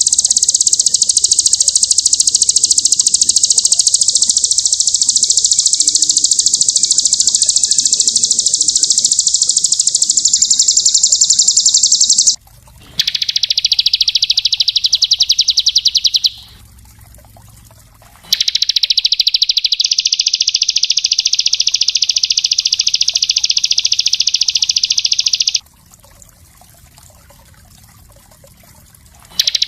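A small songbird's very fast, dense, high-pitched trill in long unbroken runs, stopping briefly a little after the middle and again near the end before starting up once more.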